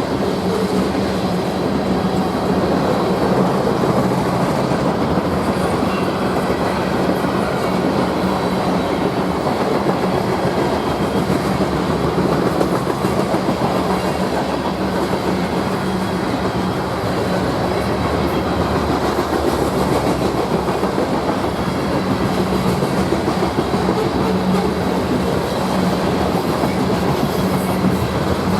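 Train rolling past at close range, its wheels clattering steadily over the rails, with a steady low hum underneath.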